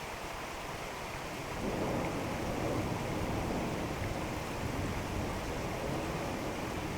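Steady rain falling during a thunderstorm, with a low rumble of thunder swelling up about one and a half seconds in and rolling on.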